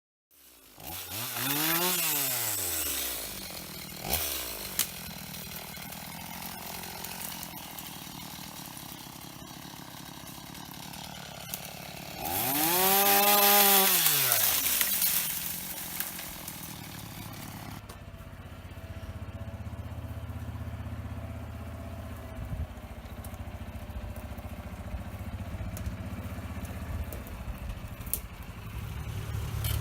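A two-stroke chainsaw idling and revved up and back down twice, briefly about two seconds in and louder around the middle. After that, a lower engine idles steadily.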